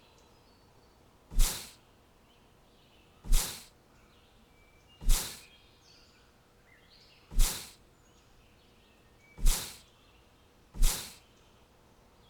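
Six loud, short whooshes at irregular spacing of about two seconds, each rising sharply and dying away within a fraction of a second, over faint bird chirps.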